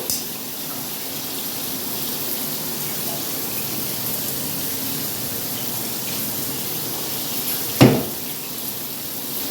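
Shower water running steadily from a newly installed filtered shower head, with one sharp knock a little under eight seconds in.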